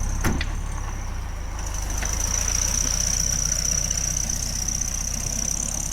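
Volkswagen Super Beetle's air-cooled flat-four engine idling steadily, with one sharp click about a quarter of a second in.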